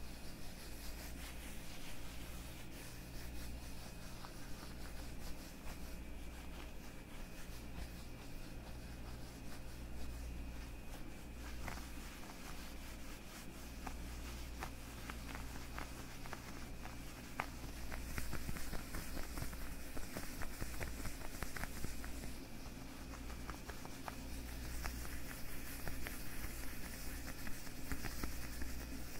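Leather gloves rubbed and flexed on the hands: a soft continuous rubbing with many small crackling clicks, thickest through the middle and a little louder near the end.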